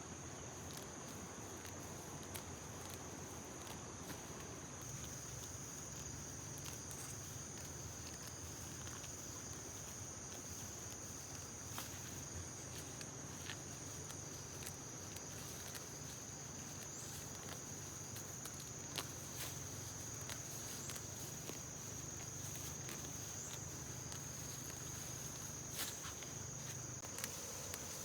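Insects droning outdoors: a steady high-pitched buzz, with scattered light clicks and a faint low hum underneath.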